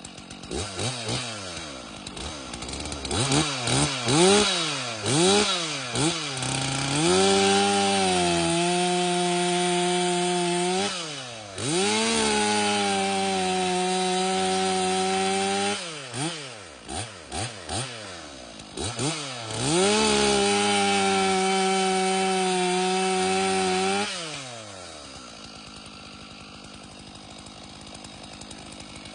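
Stihl MS 461 two-stroke chainsaw revved in several quick blips, then held at full throttle three times for about four seconds each, as in cutting through wood, before dropping back to a steady idle near the end.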